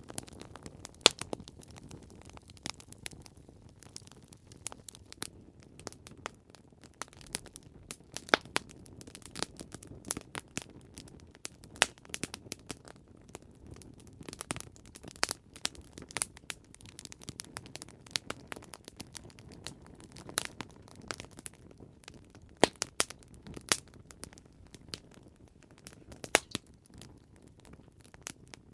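Campfire crackling: irregular sharp pops and snaps from burning wood over a soft, steady hiss of flames.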